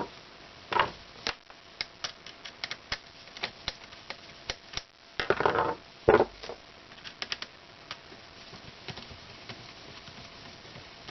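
Irregular clicks and taps of small plastic and metal parts being handled and fitted into an air pump's housing, with two brief scraping rustles and a knock about six seconds in.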